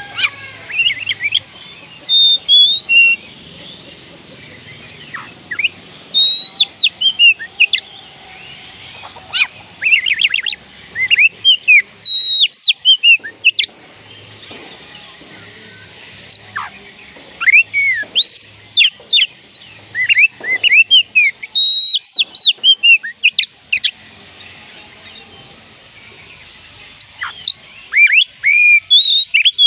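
Oriental magpie robin singing: bursts of clear whistled notes and quick rising and falling slurs, delivered in short phrases with brief pauses between them.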